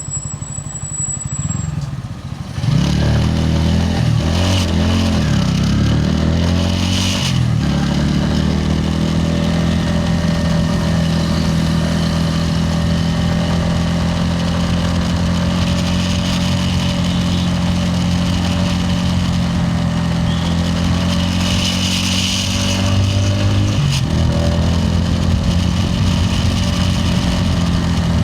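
Bajaj Pulsar N160's single-cylinder engine and exhaust under way. It picks up about two and a half seconds in, its pitch rising and falling through the gears for a few seconds, then settles into a steady cruising note, with a brief change of pitch near the end.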